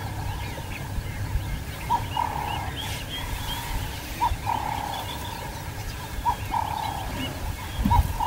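Birds calling in the bush: one repeats a short note followed by a longer wavering note about every two seconds, over fainter chirping from other birds and a steady low rumble.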